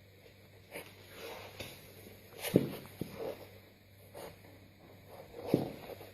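Soft scuffling and padding movement, with two sharp thuds about two and a half and five and a half seconds in, and a few lighter knocks.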